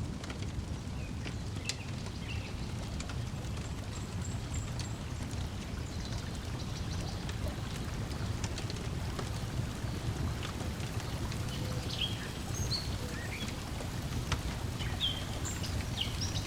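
Layered lakeside ambience: a steady low wash of water lapping, with scattered short bird chirps and sharp crackles from a wood fire.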